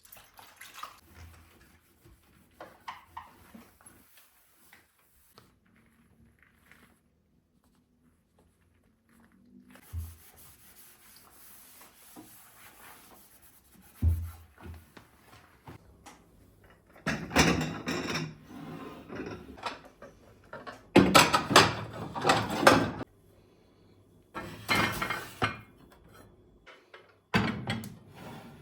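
Household handling and cleaning noises: small knocks and a few dull thumps, then four loud rushing bursts of one to two seconds each.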